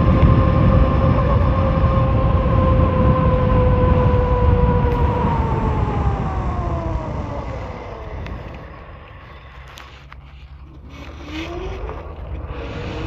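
Wind buffeting the microphone over the whine of the Philodo Jumbo's electric motors while riding. About halfway through, the whine falls in pitch as the bike slows and the wind dies down, then a rising whine returns near the end as it picks up speed again.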